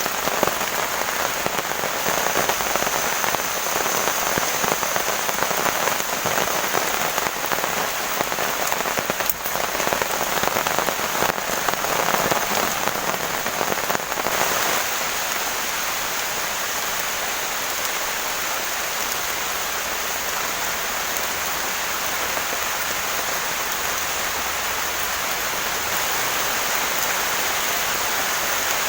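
Heavy rain falling steadily, a dense patter of drops; about halfway through it changes to a smoother, more even hiss.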